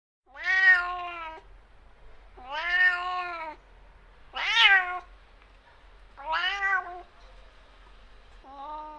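Domestic cat meowing five times, each meow about a second long and rising then falling in pitch, roughly one every two seconds.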